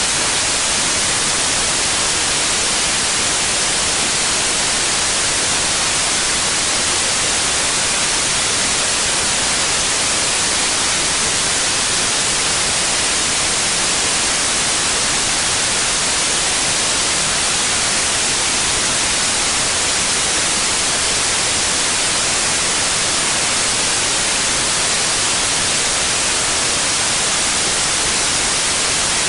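Steady white noise, an even hiss with its energy tilted toward the high end, unchanging throughout.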